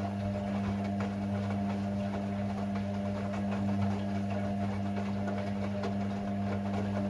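Hoover washing machine running mid-cycle with a steady, even hum and faint clicking.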